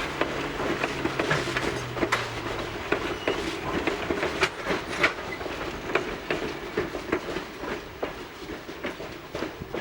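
Steam-hauled passenger train rolling past, its wheels clicking irregularly over the rail joints, with a low steady hum for the first few seconds. The sound eases off over the last few seconds.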